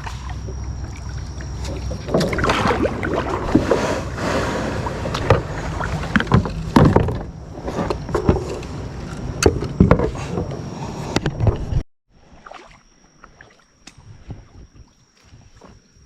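Kayak paddling: paddle strokes swishing and splashing in the water, with repeated sharp knocks as the paddle hits the kayak. The sound cuts off suddenly about twelve seconds in, leaving only faint water and small ticks.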